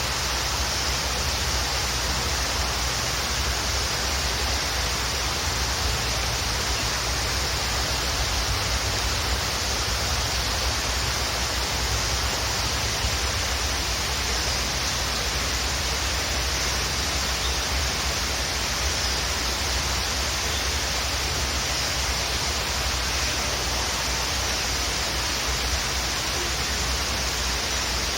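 Waterfall: a steady, unbroken rush of falling water with a deep rumble underneath and a few faint bird chirps now and then.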